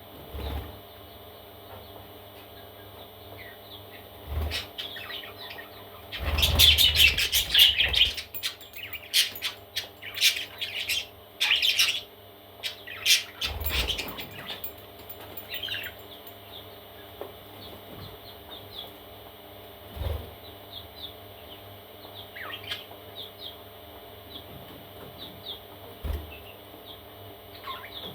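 Parrot chicks cheeping in short high chirps, with a loud dense flurry of calls about six seconds in and another shortly after, and a few soft thumps in between.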